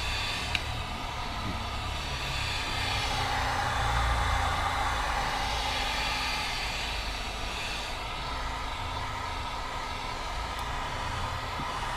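Heat gun blowing steadily, heating the transmission's aluminum case, which draws the heat away quickly; it swells a little in the middle.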